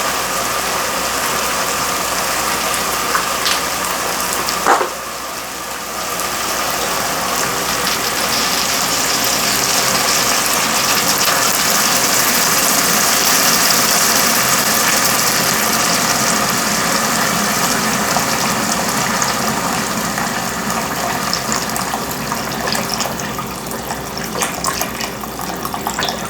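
Chicken broth pouring into a hot pot of toasted rice and chicken: a steady gushing, splashing hiss that swells in the middle and eases off near the end, with one knock about five seconds in.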